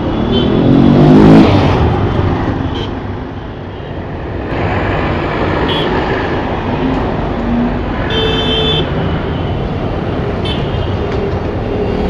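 Busy city street traffic: a steady din of engines and tyres. A vehicle passes close and is loudest about a second in, and a horn sounds briefly about eight seconds in.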